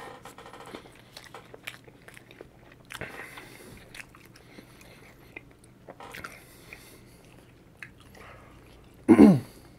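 Close-miked chewing of a bite of steakburger dipped in fry sauce: wet smacks and small clicks of the mouth. Near the end comes one short, loud hum of the voice that falls in pitch.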